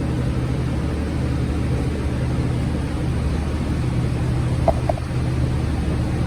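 A vehicle's engine running steadily with a low hum and road noise, with two short high blips about four and a half seconds in.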